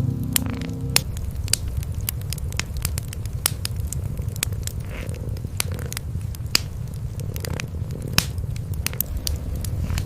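Cats purring in a steady low rumble, with a wood fire crackling in sharp, irregular pops over it.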